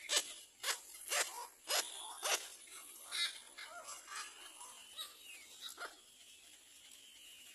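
A bird giving a run of short, sharp calls, about two a second, which give way about three seconds in to softer, fainter chirps.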